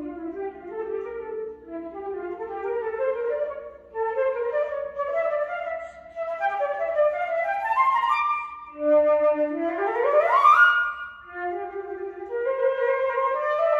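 Concert flute with piano accompaniment, playing quick climbing figures of short notes. About nine seconds in, a fast upward run ends on a held high note.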